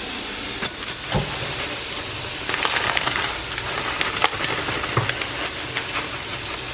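Creamy seafood pasta sauce bubbling and sizzling in a pot on a high flame, a steady hiss with scattered pops and crackles.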